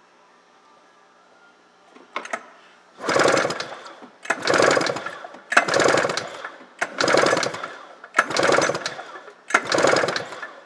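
Arctic Cat ZR 600 two-stroke snowmobile engine turned over by its recoil starter rope, six pulls in an even rhythm about one and a half seconds apart, preceded by a few clicks. The engine is being cranked for a compression test on the clutch-side cylinder, which reads a healthy 120 psi.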